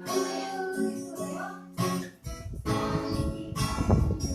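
Acoustic guitar strummed, its chords ringing, with heavier strumming from about halfway through.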